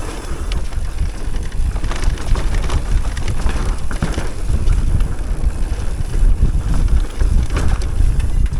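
Wind buffeting the microphone and tyres rolling over a dirt trail during a fast electric mountain bike descent, with scattered knocks and rattles from the bike over bumps.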